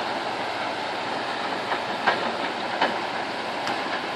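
KrAZ 6x6 heavy truck working through a river: a steady rumble of engine and water, with a few sharp clanks about two and three seconds in.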